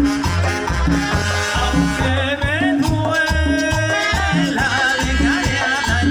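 Live tropical dance-band music: an instrumental passage with a steady bass rhythm, held brass chords and shaken percussion.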